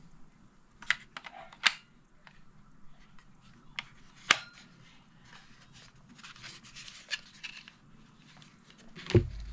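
A few sharp, irregular clicks and knocks, with light rustling about six seconds in and the loudest knock near the end.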